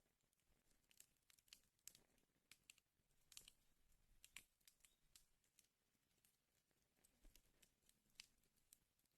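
Wood fire crackling faintly: irregular sharp pops and snaps of burning firewood, with the loudest pops about three and a half and four and a half seconds in.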